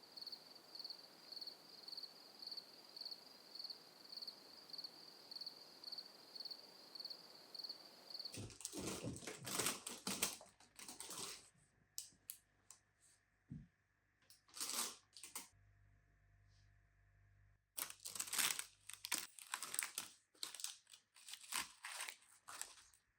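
A faint high chirp pulsing about twice a second, then from about eight seconds in irregular crinkling and rustling, like paper or material being handled.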